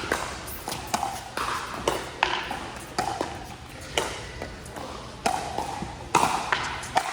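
Pickleball paddles striking a hard plastic pickleball: a string of sharp pops, a dozen or so at irregular spacing, some close together in quick exchanges, over a faint background murmur.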